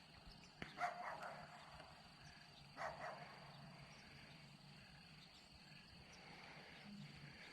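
Faint, short animal calls: two close together about a second in and one more near three seconds, over a quiet steady background.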